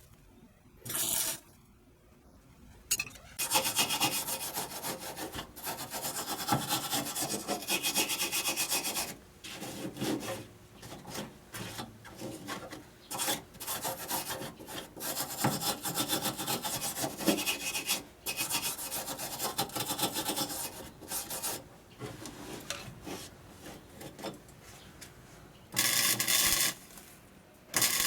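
Rough rasping strokes of hand abrasive work on car bodywork. The strokes start a few seconds in and run steadily for a long stretch, then break into shorter spurts with pauses between them.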